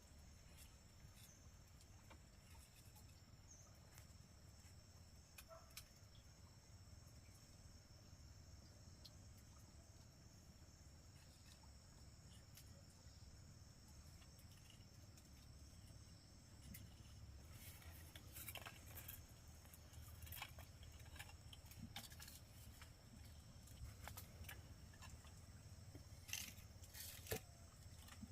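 Near silence: faint steady chirring of insects, with scattered soft clicks and taps in the second half.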